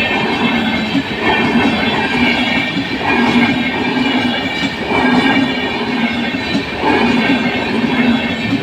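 Train running fast on the rails: a loud, steady rush of wheel and rail noise with a pattern that comes back about every two seconds, like wheel sets going over rail joints.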